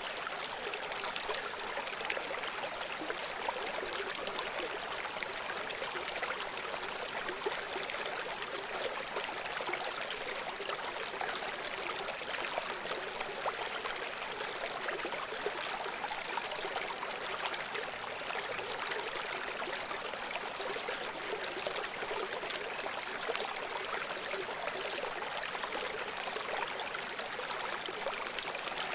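A running stream: water flowing and trickling over rocks in a steady, even rush with small splashing flickers.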